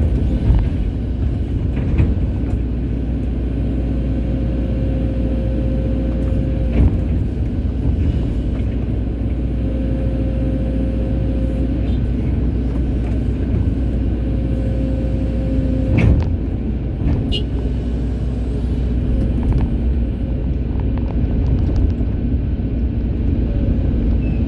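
Hydraulic excavator's diesel engine running steadily, with a whine that comes and goes and a few sharp knocks as the machine works.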